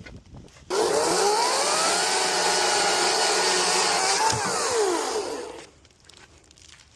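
Sawmill engine throttled up so its pitch rises, running hard with a loud hiss of the spinning blade for about five seconds, then throttled back so the pitch falls away.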